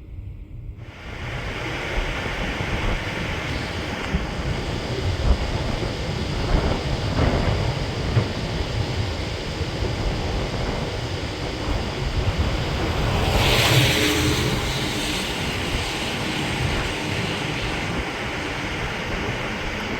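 Wind buffeting the microphone: a rushing noise with a gusty low rumble that comes up about a second in, swelling in a stronger gust about two-thirds of the way through.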